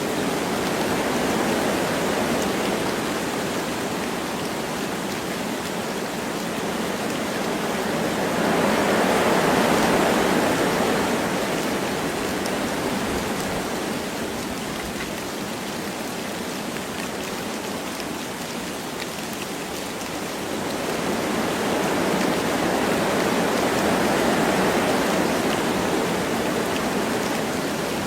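Wind rushing through forest trees with light rain falling: a steady rushing hiss that swells into gusts twice, about a third of the way in and again in the last third.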